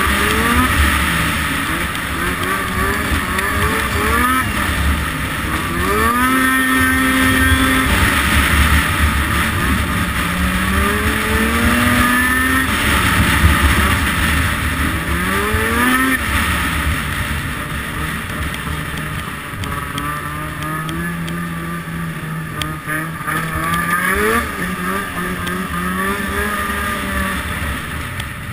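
Arctic Cat 800 RR engine under way, revving up and easing off again in repeated surges, its pitch climbing, holding and dropping each time. One run is held at a steady pitch for several seconds past the middle before it falls away near the end.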